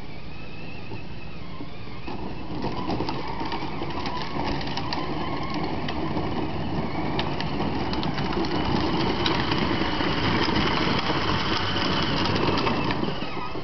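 A vehicle's motor running with rattling and clicking, starting about two seconds in, growing slightly louder and cutting off near the end.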